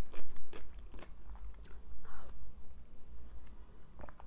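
Close-miked eating sounds: chewing a mouthful of creamy broccoli and cheese soup, with scattered small wet mouth clicks. About four seconds in, a couple of sharp clicks as the metal spoon touches the soup bowl.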